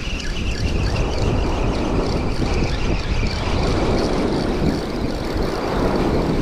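Steady roar of ocean surf breaking on a beach, with wind on the microphone.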